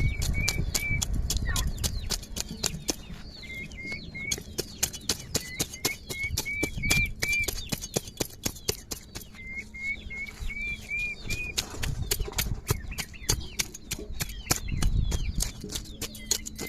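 Rapid sharp clicks or taps, several a second, with a bird repeating short runs of five or six rising chirps every few seconds.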